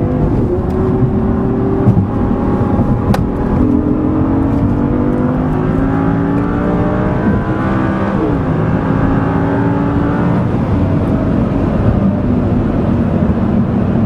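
Sports car's V10 engine under hard acceleration: revs climb, drop back at two gear changes, then climb again.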